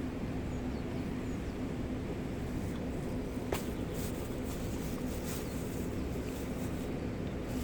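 Steady rushing of the Gave de Pau mountain river, with faint short bird chirps above it and a single sharp click about halfway through.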